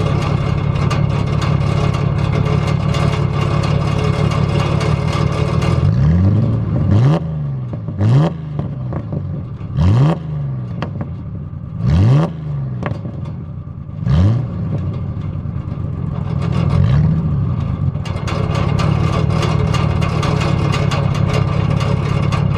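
Ford Ranger pickup engine running through its new straight-piped exhaust and 3-inch stack: a steady drone, then a run of quick revs about two seconds apart, each rising and falling in pitch, and a softer one later before it settles back to a steady drone.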